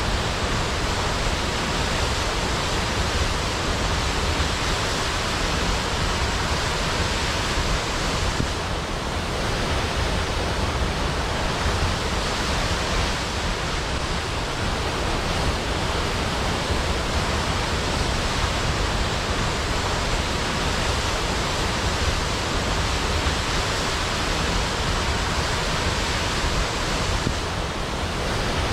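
Large waterfall crashing into a pool: a steady, dense rush of falling water with no breaks.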